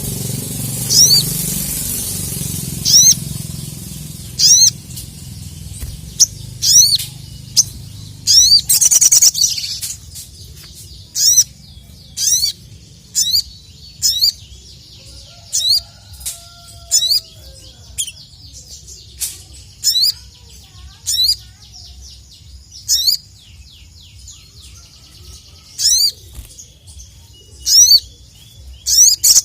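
Sogon (sogok ontong) calling: a series of loud, sharp, high chirps about one a second, with a fainter quick twittering between them. A brief rustle about nine seconds in.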